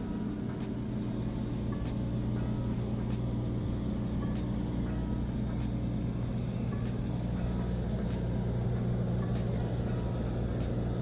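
Motor vehicle engine running steadily with a low hum, which shifts slightly in pitch about halfway through, along with faint regular clicks.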